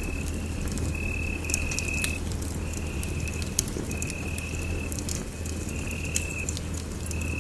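Wood fire in a fireplace crackling with frequent sharp pops over a low steady rumble. A thin high-pitched trill comes and goes in stretches of about a second throughout.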